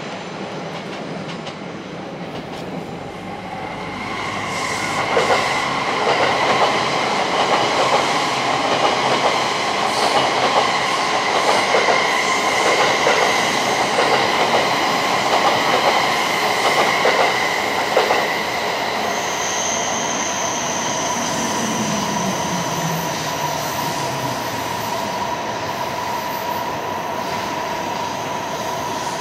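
JR East E657 series electric limited express passing through a station. The sound swells in a few seconds in, then its wheels clack over the rail joints in a quick, even run for about twelve seconds over a steady electric whine. The clacking stops, and a steady whine remains, with a low tone sliding down in pitch near the end.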